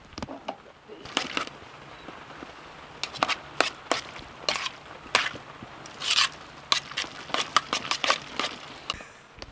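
A knife cutting on a cutting board: irregular sharp taps and crunches, a few of them longer and rasping.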